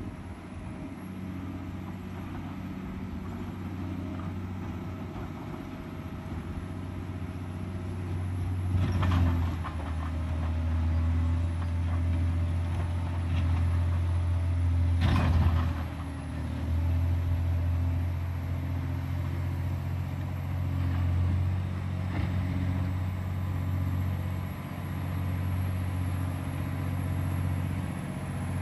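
John Deere 670 GP motor grader's diesel engine running steadily under load. Two brief rattling noises come through it, about nine and fifteen seconds in.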